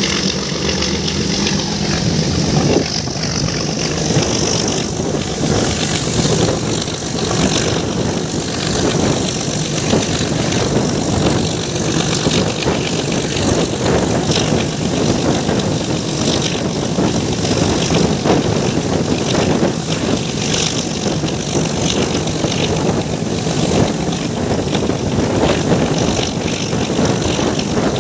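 Meter-gauge passenger train running, a steady rumble with wheels clicking and clattering over the track, heard from an open coach doorway.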